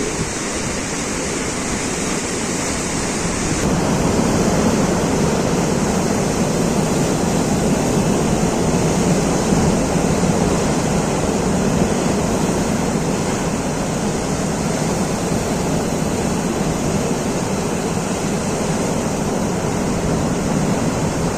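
Sea surf washing in a steady rush, swelling slightly a few seconds in.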